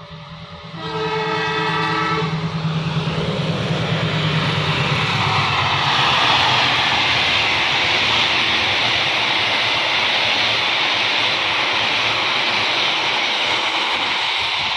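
Diesel-electric locomotive hauling a passenger train past. It gives one horn blast of nearly two seconds over its engine drone, then the steady rush of the coaches' wheels on the rails builds and holds as the train goes by.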